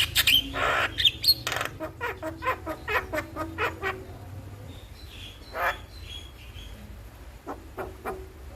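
Javan myna chattering: a rapid string of sharp, harsh calls and short whistles, thinning out after about four seconds, with one louder call past the middle and the calls picking up again near the end.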